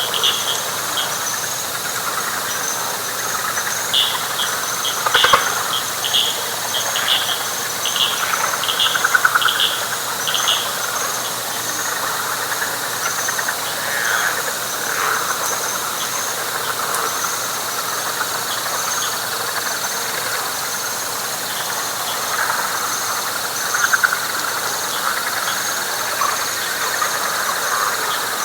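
Night chorus of frogs and insects: a steady high insect trill over a dense, trilling frog chorus. Early on comes a run of sharp clicking calls, about two a second.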